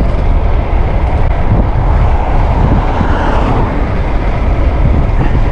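Strong wind rushing over a clip-on microphone fitted with a furry windshield, on a bike riding at speed. A steady, loud rush that swells in the middle.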